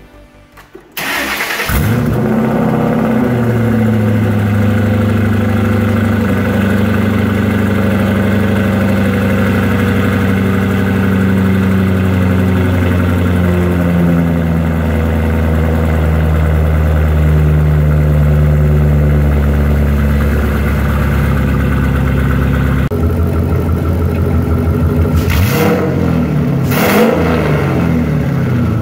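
Turbocharged Ford Mustang GT's 4.6-litre three-valve V8 starting about a second in and then idling, the idle wandering slightly in pitch. Near the end it gives two short revs.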